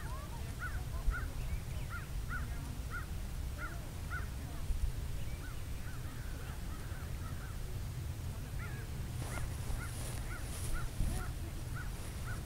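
A bird calling over and over: short notes that rise and fall, about two a second, in two runs with a pause of a couple of seconds between them, over a steady low rumble.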